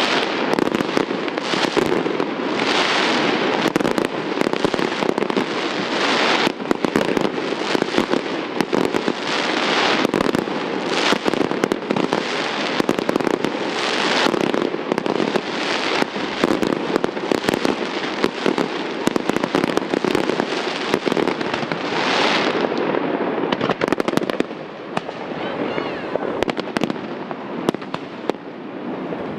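Fireworks display: aerial shells going off in a dense run of bangs and crackling. It thins out and grows quieter about three quarters of the way through.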